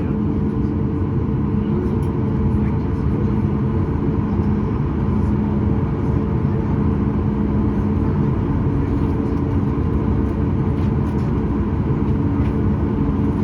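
Steady engine noise and airflow heard inside the cabin of a Boeing 737 MAX 8: an even rumble with a few constant droning tones that neither rise nor fall. A few faint clicks sound in the cabin.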